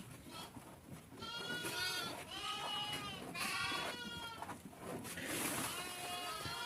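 Goats and sheep of a mixed herd bleating, several calls in a row, some overlapping.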